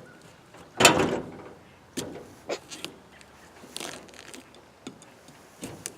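Kitchen knife cutting and stabbing into a pumpkin: a string of irregular knocks and scrapes, the loudest a longer scraping stroke about a second in.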